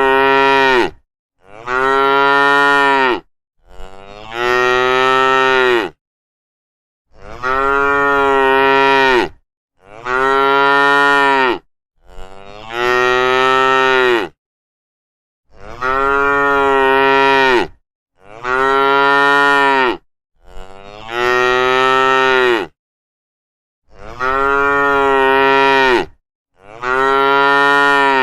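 Cow mooing: long, loud, drawn-out moos of about two seconds each, coming in sets of three, with dead silence between them.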